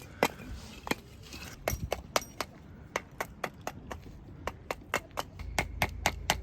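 Softwood firewood being chopped or split: a run of sharp strikes that start a second or so apart and speed up to about four a second.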